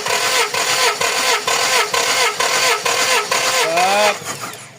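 Starter motor cranking a Toyota 1RZ four-cylinder petrol engine without it firing, for a compression test on cylinder 3: an even chugging about four beats a second over the starter's whine, stopping about four seconds in. The gauge reads about 170–180 on this cylinder, a healthy compression.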